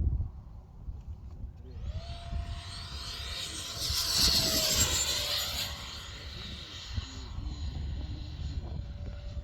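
Electric ducted fan whine of an RC F-16 jet flying past. The fan is an 80 mm Xfly unit. It grows louder about two seconds in, is loudest around the middle, drops slightly in pitch as it passes, then fades. Wind rumbles on the microphone throughout.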